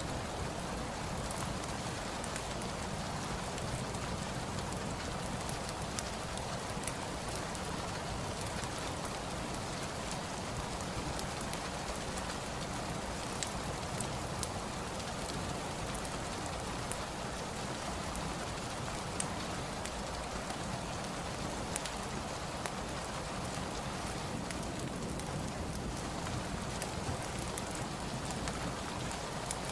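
Steady rain as an even hiss, mixed with a crackling fireplace, with scattered sharp crackles and clicks throughout.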